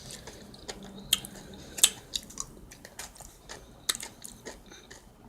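Close-miked chewing of a taco salad: wet mouth clicks and crisp crunches at an uneven pace, with a few louder crunches about one, two and four seconds in.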